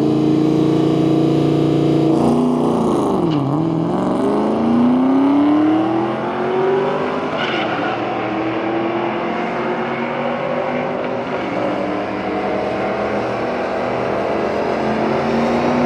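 Cammed LS1 V8 of a Trans Am WS6, with long-tube headers and dual exhaust, running hard. Its pitch drops sharply about three seconds in and then climbs steadily as the revs build again, like a gear change under power, and rises again near the end.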